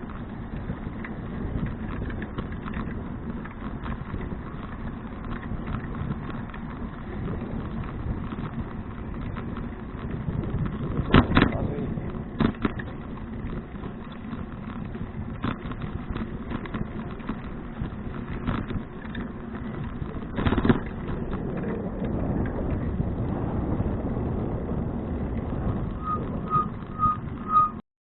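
Steady wind rumble on the microphone and riding noise from a bicycle-mounted action camera, with sharp knocks about 11 and 20 seconds in. Near the end a high electronic beep repeats about two or three times a second.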